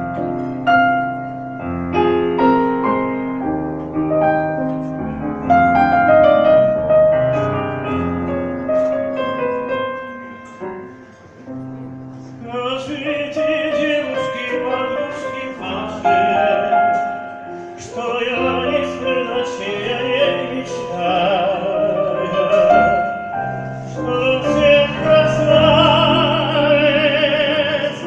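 Piano introduction to a Neapolitan song; about twelve seconds in, a singer comes in over the piano in an operatic style with wide vibrato.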